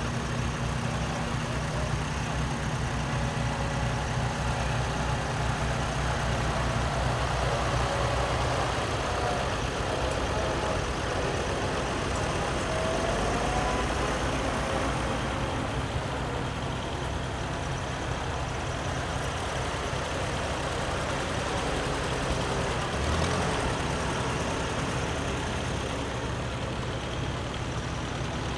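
Antique tractor engines running steadily at low speed.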